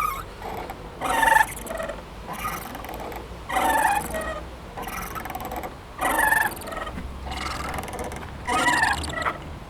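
Playground swing creaking as it swings back and forth: a squeak about every two and a half seconds, with fainter squeaks in between.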